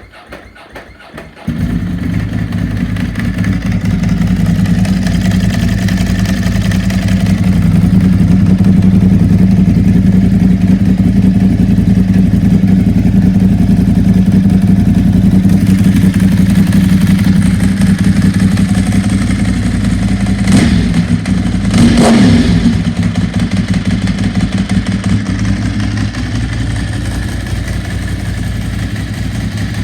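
Ducati 999S track bike's L-twin engine, breathing through a Leo Vince race exhaust, on a cold start. It turns over briefly on the starter, catches about a second and a half in, and settles into a loud, lumpy fast idle. Two quick throttle blips come around twenty seconds in, and then the idle drops to a quieter, lower level near the end.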